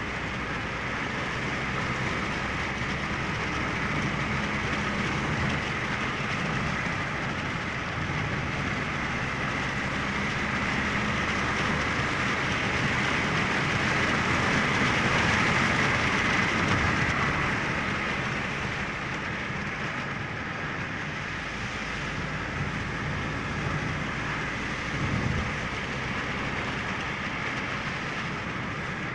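Steady rushing noise of a moving vehicle, growing louder toward the middle and easing off again.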